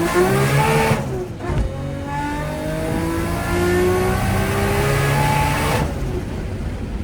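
Turbocharged Nissan RB25 NEO 2.5-litre straight-six under hard acceleration. The revs climb, break and drop briefly about a second in at a gear change, then climb in one long pull until the throttle closes near the end. The engine sounds healthy, with nothing out of place.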